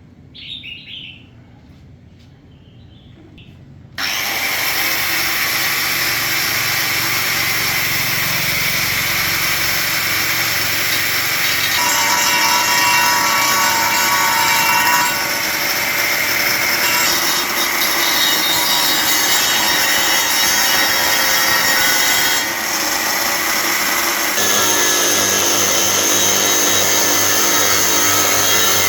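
A power tool starts about four seconds in and runs loudly and continuously, its tone shifting several times.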